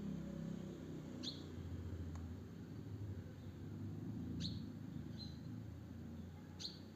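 A small bird chirping: three short, sharp, downward-sliding chirps about two seconds apart, over a steady low rumble.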